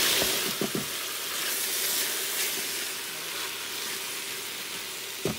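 Vegetables sizzling in an Instant Pot's stainless-steel inner pot on the high sauté setting, with a spatula stirring them. A few light knocks come near the start and just before the end.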